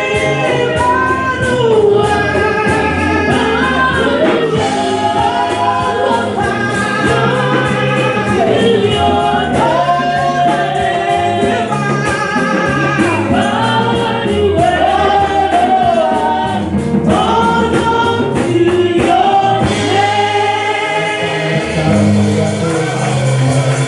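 Gospel choir singing with a band: several voices over bass and percussion with a steady beat.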